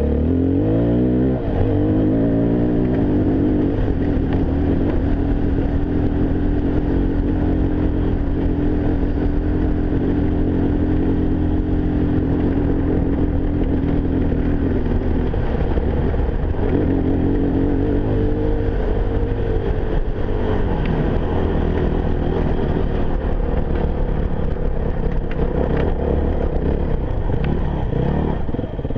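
Enduro motorcycle engine running under way. Its revs fall about a second in, hold steady for a long stretch, then rise and fall in the second half.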